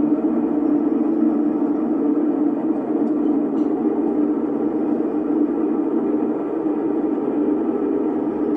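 A loud, steady rushing noise with no speech or music, even throughout and weighted toward the low end.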